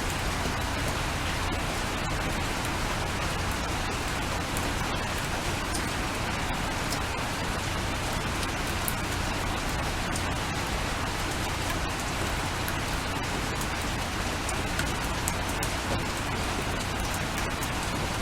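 Steady rain, with many separate drops ticking sharply over the even hiss.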